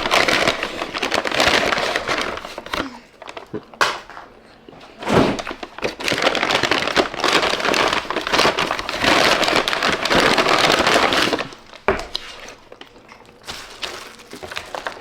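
Takeout food packaging rustling and crackling as it is handled and opened, in two long spells with a quieter pause between.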